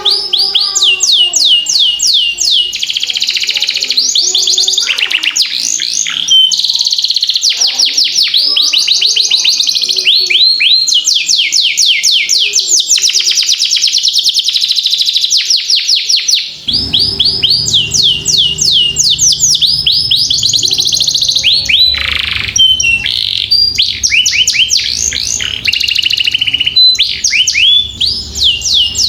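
Domestic canary singing long rolling trills: fast runs of repeated high sweeping notes, changing from one tour to the next with brief pauses. A low steady hum comes in partway through.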